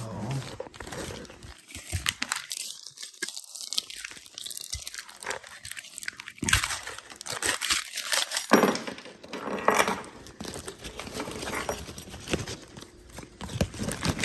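A small packet being torn open and crinkled by hand, with irregular crackling and tearing, to get at the trunk keys inside.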